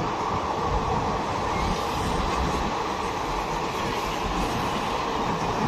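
A train running past on the line, with the steady, unbroken noise of wheels on rails.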